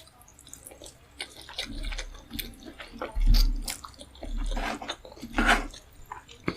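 Close-miked wet mouth sounds of eating: irregular smacks, clicks and chewing, with a few louder wet bursts around the middle and low bumps beneath.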